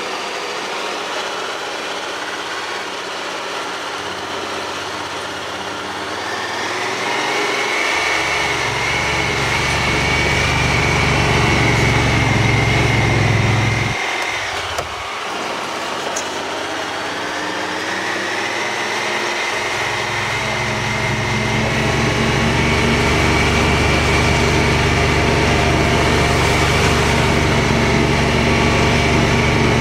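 A vehicle's engine running while driving. It picks up revs with a rising whine about a quarter of the way in, drops off briefly near the middle, then builds again and holds steady.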